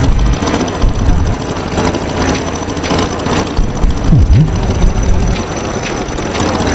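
Tractor engine running with a rough, noisy sound, with a brief dip and rise in pitch about four seconds in.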